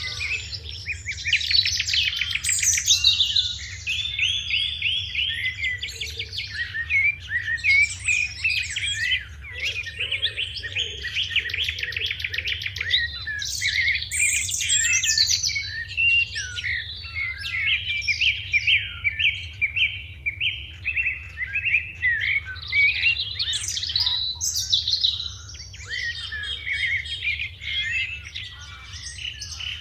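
A group of sparrows chirping continuously, a dense chorus of overlapping chirps and quick runs of repeated notes, over a steady low hum.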